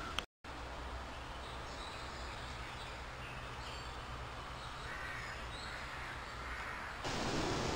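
A few faint bird calls over a steady outdoor background hiss and low rumble.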